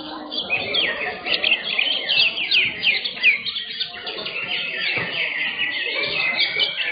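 Greater green leafbirds (cucak hijau) singing, several at once: a dense, continuous stream of quick, sharp chirps and falling notes.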